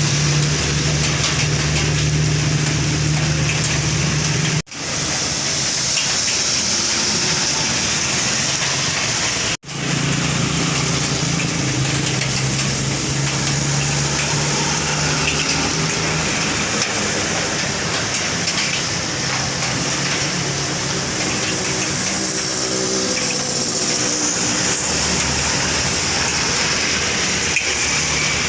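A truck's engine droning steadily under a loud, constant hiss like rushing air or water. The sound cuts out briefly twice.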